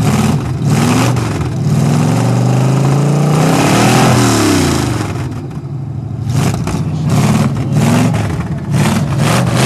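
1978 Jeep CJ5's AMC 304 V8, freshly cold-started, being revved hard: the engine pitch climbs and falls again and again, with one long climb peaking about four seconds in and a string of shorter blips after it.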